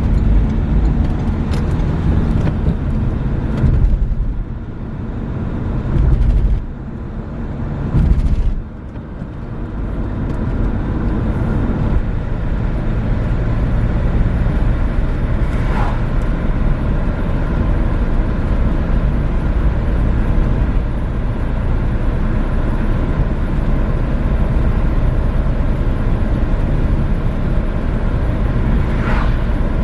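Renault Megane III driving: steady engine and road noise, which drops back briefly a few times in the first third before holding steady.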